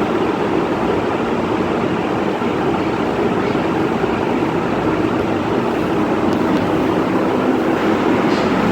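Quiet Pak ceiling fan running: a steady rush of moving air.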